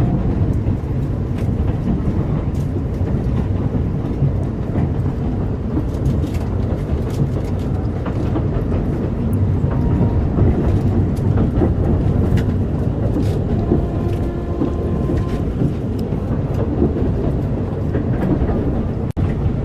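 Narrow-gauge Alishan Forest Railway train running along the track, heard from on board: a steady low rumble of wheels on rails with scattered clicks and rattles. The sound cuts out for an instant near the end.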